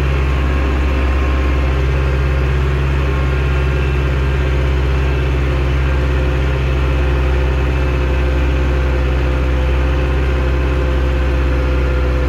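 Zetor 6245 tractor's four-cylinder diesel engine running steadily under load while pulling a three-furrow reversible plough through the soil.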